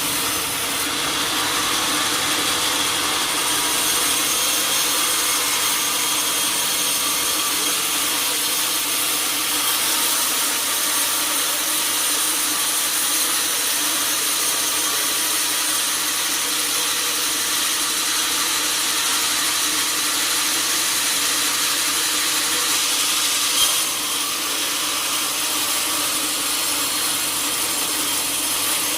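Sawmill saw running steadily through a teak log, a dense, even rasping noise with faint steady tones. One short knock sounds about two-thirds of the way through.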